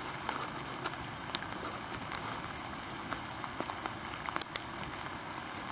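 Steady rain falling, an even hiss with scattered sharp ticks of drops landing close by.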